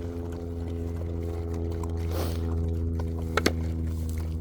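A steady low mechanical hum, with two sharp clicks close together about three and a half seconds in.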